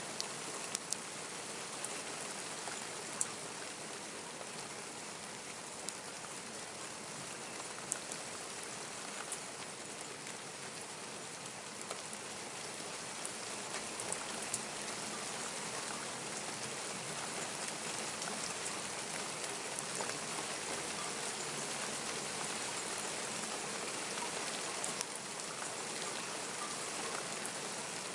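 Steady rain falling, with a few sharp taps scattered through it.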